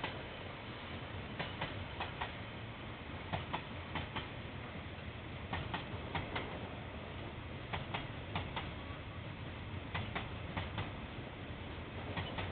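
Wheels of a slowly passing train clicking over a rail joint: groups of four clicks, two quick pairs, about every two seconds, as each pair of neighbouring bogies crosses it, over a steady low rumble.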